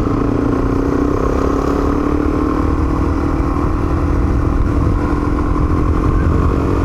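Motorcycle engine running at a steady pitch while riding along, over a heavy low rumble of wind and road noise.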